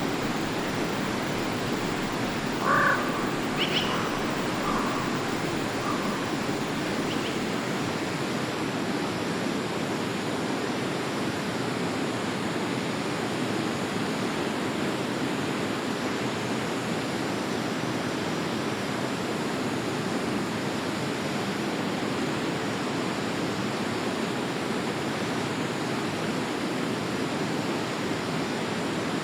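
Forest stream flowing steadily, a constant rushing of water. About three seconds in come a few short calls, with a couple of fainter ones soon after.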